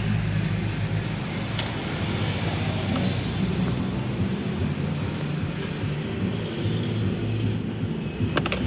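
Steady low mechanical hum of a motor running, with a sharp click about one and a half seconds in and a few clicks near the end.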